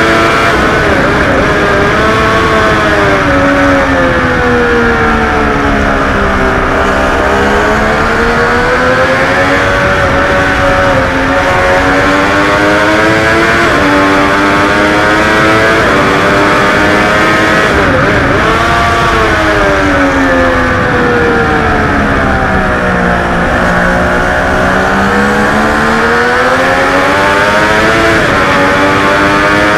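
Triumph Daytona 675R's three-cylinder engine at racing speed, heard from on the bike: the revs fall twice into long dips as it slows for corners and climb again under throttle out of them, with brief jumps in pitch at gear changes.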